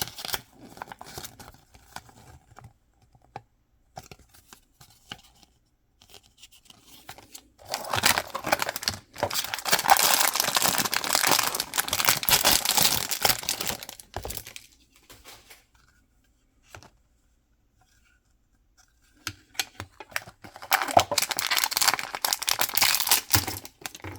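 Mystery-box packaging being torn open and crinkled by hand, in two long stretches of loud rustling and tearing, with scattered small clicks and taps between them.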